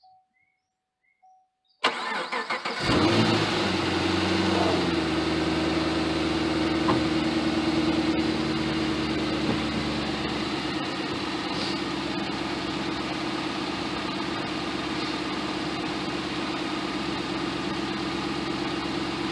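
A 2010 Camaro SS's 6.2-litre V8 is cranked by the starter on a weak battery whose voltage sags to 9 volts. The starter turns it for about a second, starting about two seconds in, and the engine catches with a brief flare in revs. It then settles to a steady idle.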